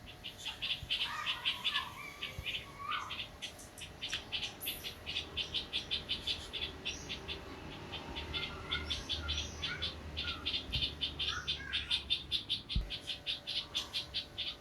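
Birds giving short calls now and then, over a continuous rapid high-pitched pulsing chirp that repeats about four to five times a second.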